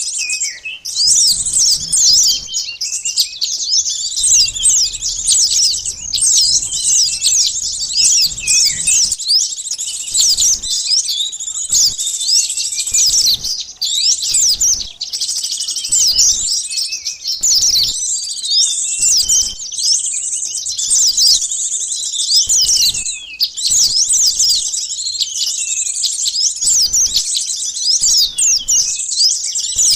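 Bird-lure recording of small birds, sunbird-type calls, meant to draw in sunbirds and other small birds: a dense, unbroken chorus of high, quick chirps and twitters from many birds at once.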